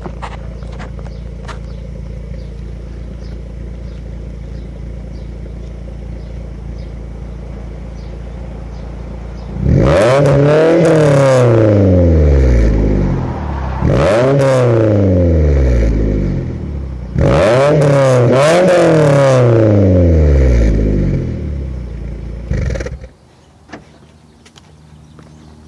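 A 2004 Suzuki Aerio SX's four-cylinder engine idles steadily through a Magnaflow cat-back exhaust with the second catalytic converter replaced by straight pipe. About ten seconds in it is revved three times, each rev rising quickly and falling back to idle. It then shuts off.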